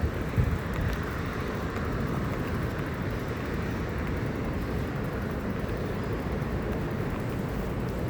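Steady low rumbling noise of a bicycle ride in light rain: wind on the microphone and tyres on wet ground. A couple of short knocks sound right at the start, about half a second apart.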